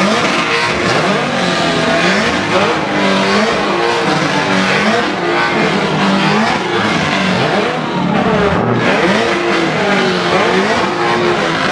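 Car engines revving hard and loud, the pitch sweeping up and falling back again and again.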